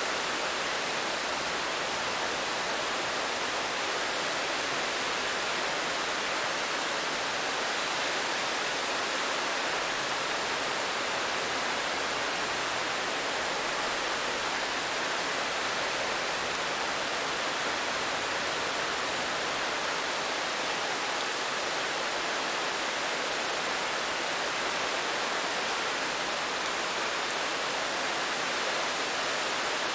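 Steady rain falling: an even hiss that holds constant, with no single drops, thunder or other events standing out.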